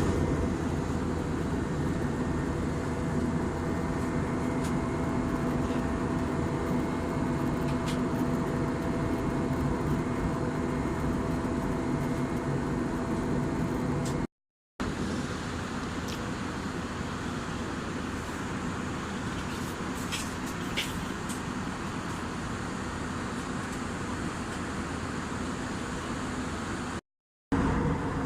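Steady engine and airflow noise inside an Airbus A321-200's cabin during the climb: a constant hum with a faint steady tone. It cuts out briefly about halfway through and again near the end.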